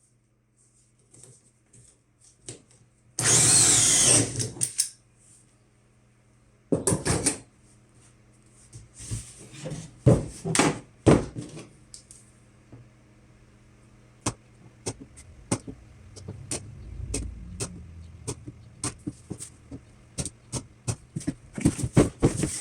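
Power drill with a hole saw cutting into a plastic garbage can in short runs, the longest and loudest about three seconds in, then a run of sharp clicks and cracks through the second half.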